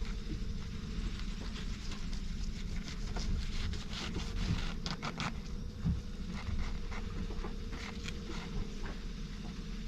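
Knife scraping and clicking in short irregular strokes as a small lionfish is filleted and the meat cut off the skin, over a steady low hum.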